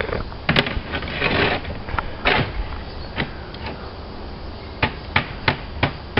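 Slate roofing work with a slater's hammer: scattered sharp knocks and a short scrape, then four quick, evenly spaced strikes, about three a second, near the end.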